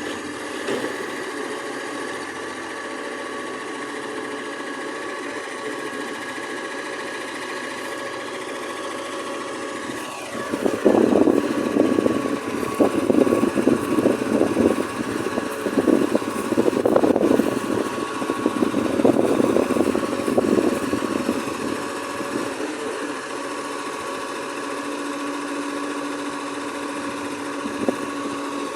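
Garbage truck engine running steadily, with a louder, rough, uneven stretch of about twelve seconds in the middle.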